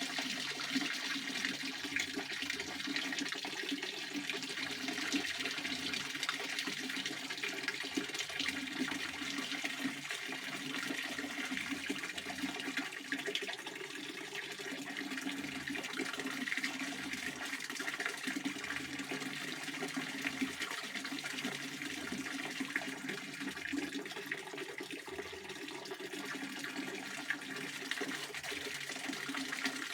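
Pond water fountain splashing steadily, water falling back onto the surface in a continuous rushing patter.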